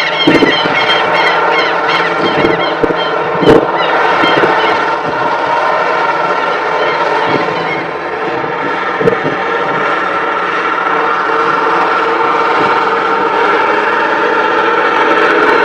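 Engine-driven farm machinery running steadily, with a few sharp knocks, the loudest about three and a half seconds in.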